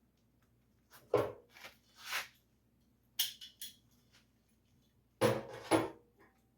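Metal parts and vise-grip clamps being handled and set on sheet steel: a string of separate clanks and short scrapes, the loudest two near the end.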